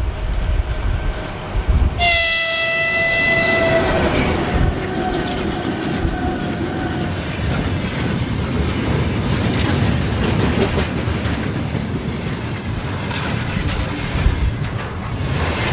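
Electric locomotive's horn sounds about two seconds in, one held blast that fades out over the next few seconds with a slight fall in pitch. It sits over the steady rumble and wheel clatter of a passing train.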